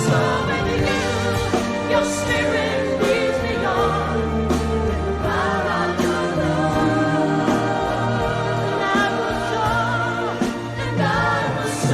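A Christian worship song playing: voices singing over a band with a steady beat and sustained bass.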